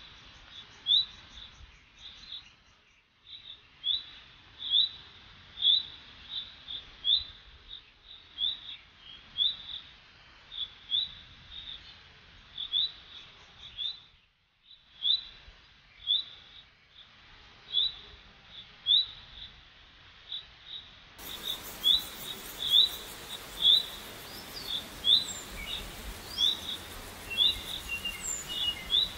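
A bird chirping over and over: short, sharp, rising chirps about once or twice a second, coming a little faster near the end. A steady hiss grows louder about three-quarters of the way through.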